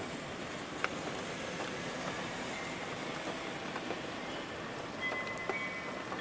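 Steady rain falling, with a sharper single drop about a second in. A few faint ringing tones come in near the end.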